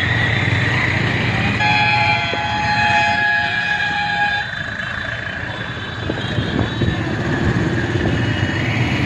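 Road traffic with a steady low engine drone; about two seconds in, a vehicle horn sounds a chord of several tones and holds for about three seconds.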